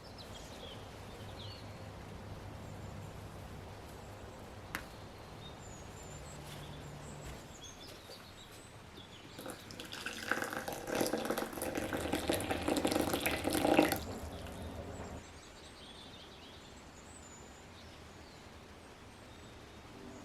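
Water running, loudest for about four seconds in the middle, over a faint steady background with small high chirps.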